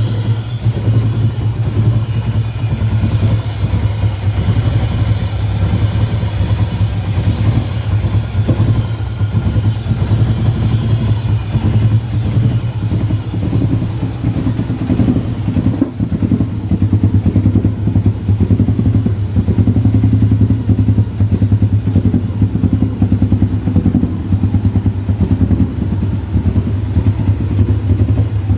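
Subaru GT's flat-four boxer engine running steadily, with a fast, even pulsing and no revving.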